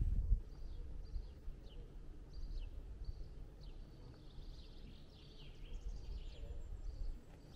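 Small birds chirping, repeated short high calls that come thickest in the middle, over a low, uneven outdoor rumble that is loudest right at the start.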